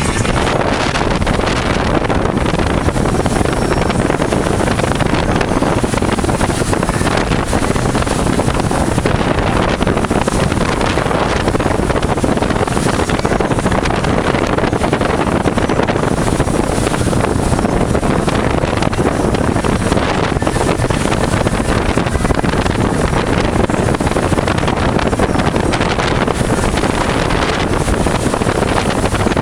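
1995 Sea Ray 330 Sundancer cruiser with a Peninsular turbo-diesel conversion, underway with its engines running steadily. Heavy wind noise on the microphone covers much of the sound.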